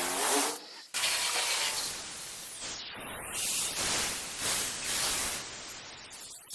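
Water jets of an automatic car wash machine spraying, a hiss that swells and fades several times.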